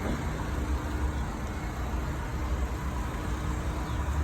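Steady low rumble of a heavy engine running, with a faint steady hum over it.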